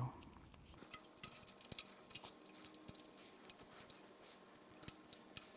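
Faint, scattered light clicks and taps of hand tools on metal while the camshaft sprocket is worked off the front of a 5.7 L Vortec V8.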